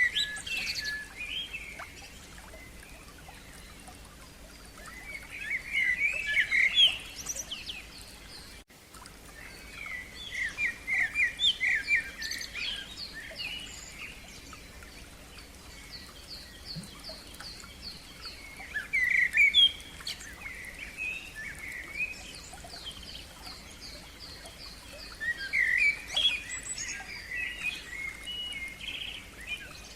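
Songbirds singing: rapid, varied phrases of song come every several seconds, while a second bird keeps up a long run of evenly repeated high notes between them.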